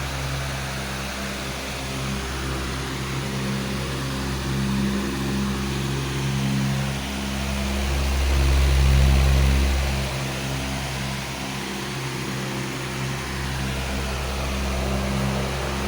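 Powerful electric fan running steadily: a rush of moving air over a low motor hum, swelling a little for a few seconds midway.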